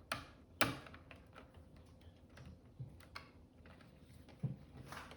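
Hard plastic LEGO Technic parts being handled and clicked back into place: a few sharp clicks, the loudest about half a second in, with softer taps between.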